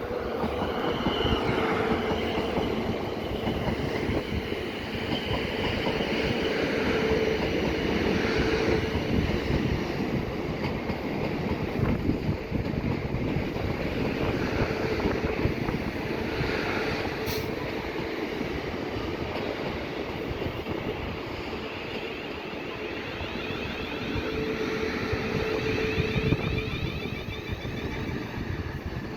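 A train running along the track, a steady loud rumble with high squealing tones from the wheels that come and go, easing off near the end.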